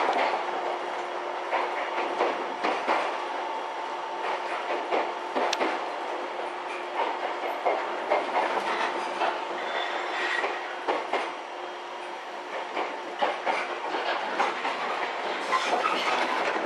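JNR 113-series electric multiple unit running at speed, its traction motors growling with a loud, steady drone. The wheels clack irregularly over rail joints.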